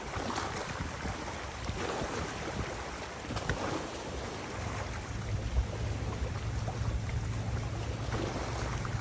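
Wind rushing over the microphone, a noisy steady blowing with low rumble that grows steadier about halfway through.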